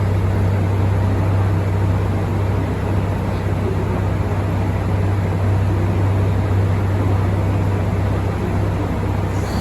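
Train running or idling: a loud, steady low engine drone over a broad rumbling hiss.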